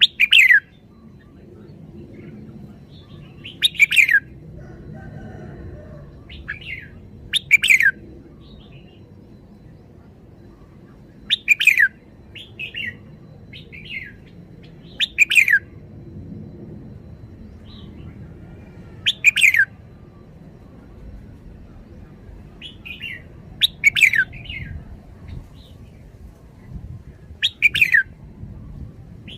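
Red-whiskered bulbul singing: a loud, short, falling phrase about every four seconds, with softer chirps between, over a low steady background rumble.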